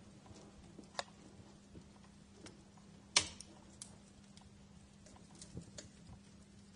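Wood fire crackling with scattered small pops at irregular times, a sharp pop about a second in and a louder crack about three seconds in.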